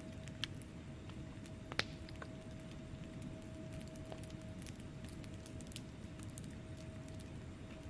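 Wood fire burning in a fireplace: a steady low rumble with scattered sharp crackles and pops from the logs, the loudest pop a little under two seconds in. A faint steady hum runs underneath.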